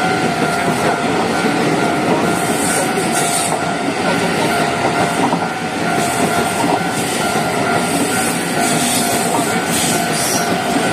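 Taiwan Railway EMU900 electric multiple unit passing close at speed: a loud, steady rumble of steel wheels on the rails with clickety-clack over the rail joints.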